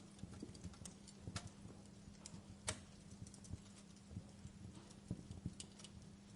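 Wood fire crackling in a fireplace: irregular pops and snaps at no set rhythm, the sharpest about two and a half seconds in, over a faint steady low hum.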